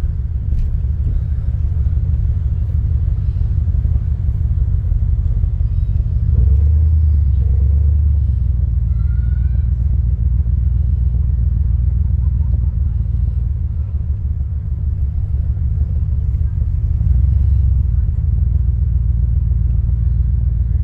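A Corvette's engine and road noise while driving: a steady low rumble that swells louder about six seconds in and again near the end, as the car accelerates.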